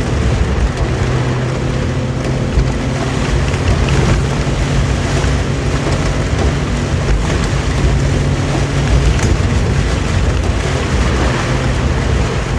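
Suzuki Jimny SJ30's two-stroke three-cylinder engine running at a steady pitch while driving, under a dense wash of heavy rain and water noise.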